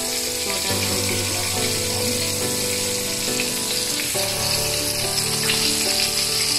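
Wheat-flour-battered chicken pieces deep-frying in hot oil in a small frying pan: a steady sizzle. Under it runs background music of held notes that change about once a second.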